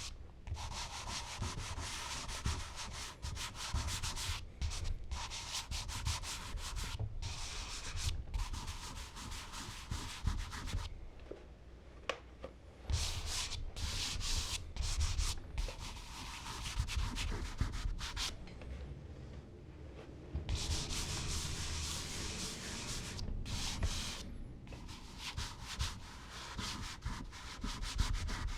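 Charcoal being worked across smooth Bristol paper: a dry, scratchy rubbing of drawing and blending strokes that runs in stretches of several seconds, with short pauses about a third of the way in, about two thirds of the way in, and once more near the end.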